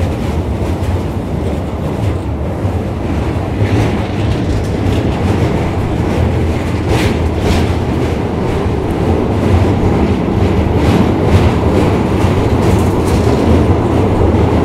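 Passenger train in motion, heard from on board: a steady low rumble of wheels on track, with repeated wheel clicks over the rails from about four seconds in.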